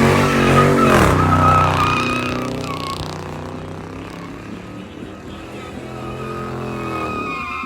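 Car engine running loud with a swing in pitch about a second in, then fading away, with a thin high squeal over it. Another engine grows louder near the end.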